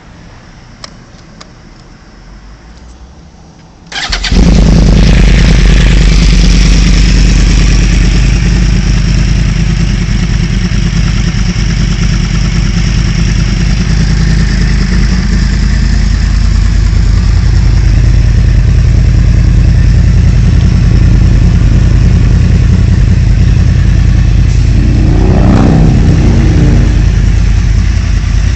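A loud motorcycle engine comes in suddenly about four seconds in and runs steadily. There is a short rev a couple of seconds before the end. Before it, only faint background sound.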